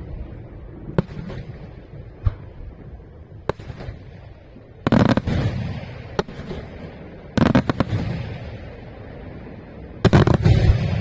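Aerial fireworks display: a few single shell bursts in the first few seconds, then three louder clusters of rapid bangs, the first about five seconds in, then at about seven and a half seconds and again near the end.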